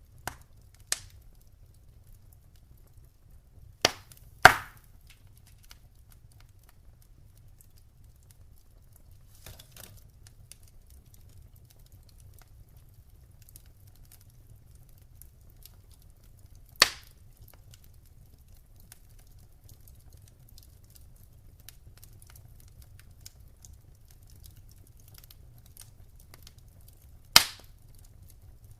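Wood fire burning in a fireplace: faint scattered crackle over a low steady hum, broken by sharp pops from the burning logs, the loudest two close together about four seconds in, then single pops near the middle and near the end.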